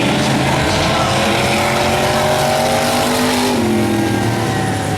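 Engines of several demo race cars running hard, their pitches climbing together and then dropping about three and a half seconds in.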